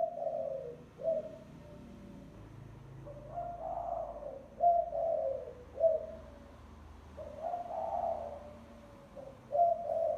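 Spotted dove cooing its song in repeated phrases: each phrase a hoarse drawn-out coo followed by two or three short, separate coos, the pattern coming round about every three to four seconds. This is the call used as a lure to draw in spotted doves.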